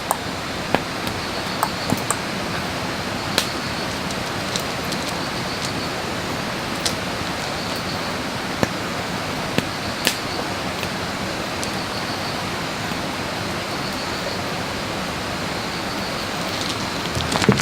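Firewood fire burning: a steady hiss with scattered sharp crackles and pops at irregular moments.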